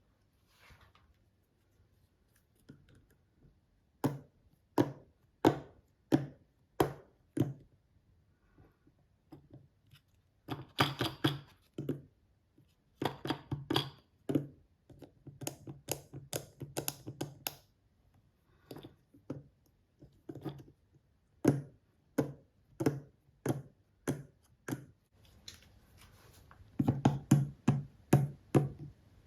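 Small plastic toy pieces being handled and tapped: a series of sharp taps and clicks, at first evenly spaced about two-thirds of a second apart, then in quicker clusters.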